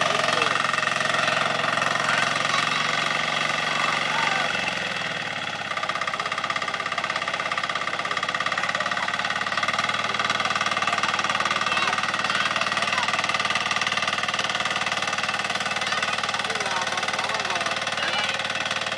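Kirloskar Mini T8 power weeder's diesel engine running steadily. About five seconds in, its note falls as the engine slows, then it carries on running evenly at the lower speed.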